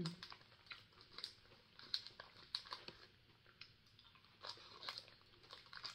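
Faint chewing of a soft, sugar-coated sweet, heard as scattered small mouth clicks and smacks, with a light crinkle of its plastic wrapper.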